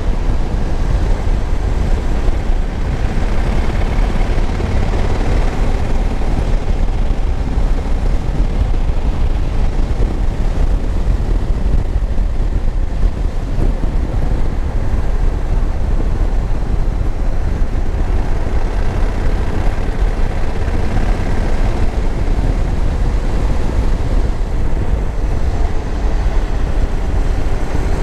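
2021 Honda Africa Twin's parallel-twin engine running steadily under way, mixed with wind rumbling on the microphone.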